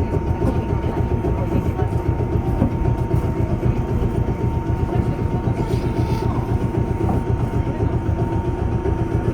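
Train running along the rails: a steady, loud rumble with a constant hum over it.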